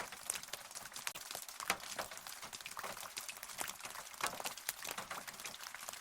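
Rain falling, a steady hiss with many irregular close drops tapping and pattering through it.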